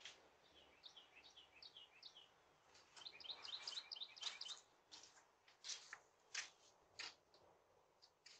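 Faint birds chirping outdoors in two quick runs of short high chirps, with a few sharp faint clicks scattered through.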